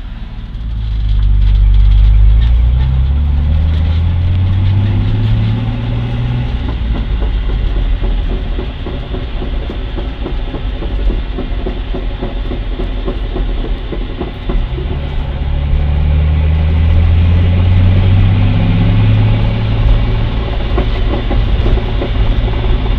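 1999 Ford Mustang engine speeding up twice and dropping back each time. While it slows, with the welded differential, there is a rapid run of clunks and rattles from the drivetrain: the deceleration clunk being recorded.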